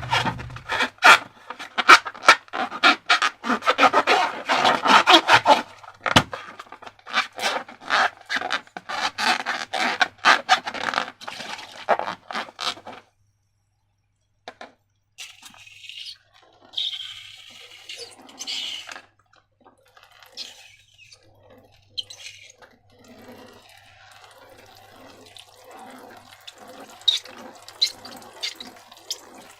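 Wet slime being squished and worked by hand: dense sticky crackling and popping for about the first thirteen seconds, then a brief pause, followed by softer wet squelching and sloshing.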